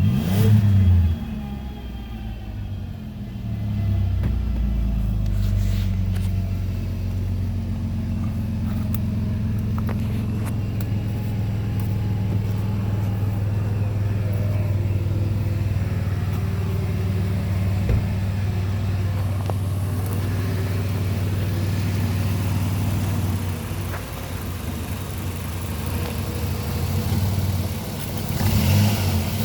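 2001 Chrysler Town & Country's 3.3-litre V6 engine is revved briefly at the start, then runs at a steady idle, with another short rev near the end.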